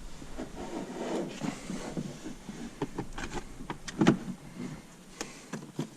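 Plastic car interior trim being handled as a center console is set back in place: scattered clicks and knocks with some rustling. The loudest knock comes about four seconds in.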